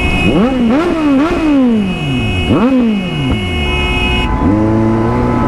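Kawasaki Z900's inline-four engine revved in a few quick throttle blips, each rising sharply and falling back. One more rev rises and falls about two and a half seconds in, then the engine settles into a steadier note near the end.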